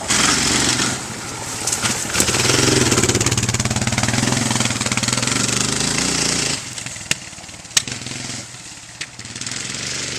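Yamaha Raptor 660 ATV's single-cylinder four-stroke engine running smoky, held at high revs and then dropping back to a lower run about six and a half seconds in, with two sharp cracks shortly after.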